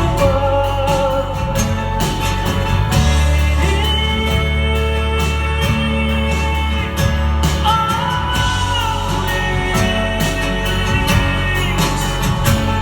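Live band music: a band playing with a steady drum beat, a strong low bass line and long held melody notes.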